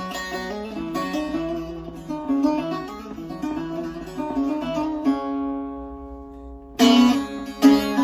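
Short-necked bağlama (saz) with a carved mulberry bowl and spruce top, played with a pick: a quick picked melody, then a chord left ringing for nearly two seconds, then loud strummed strokes near the end.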